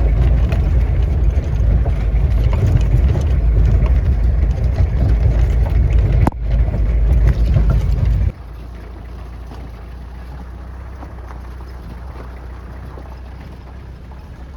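Loud, low, uneven rumble of wind buffeting the microphone on a moving vehicle, with a sharp click about six seconds in. About eight seconds in it drops abruptly to a quieter, steady low rumble.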